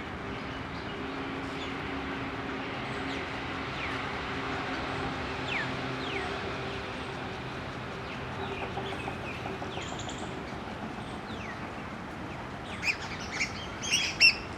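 Birds calling: faint thin falling chirps through the middle, then a quick run of loud, sharp high calls near the end. Underneath is a steady hum of distant traffic.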